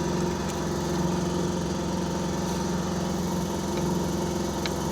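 An engine idling steadily, a constant low hum with no change in speed, with one faint click near the end.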